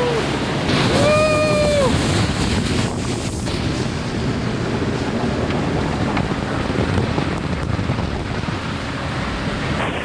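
Wind buffeting the microphone and water rushing past a fast-moving open boat, a steady loud rush. About a second in, one short high call rises and falls over it.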